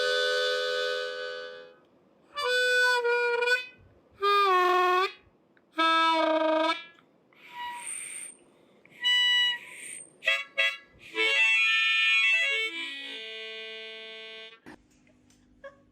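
Harmonica played in short blasts of chords with pauses between them, some notes bent downward. Later comes a longer run of chords that steps down in pitch.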